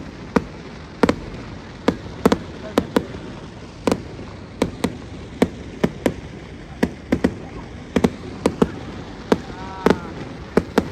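Fireworks going off in a rapid, irregular run of sharp bangs, about two or three a second.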